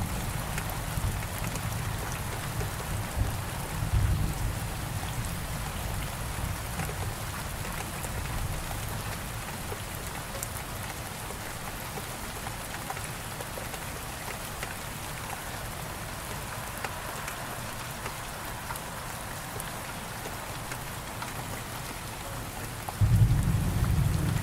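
Steady rain falling in an even hiss, with low rolling thunder rumbling in the first few seconds, fading away, then a louder thunder rumble breaking in near the end.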